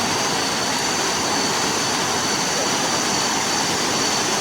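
Steady rushing of flowing river water, with two steady high-pitched tones running above it.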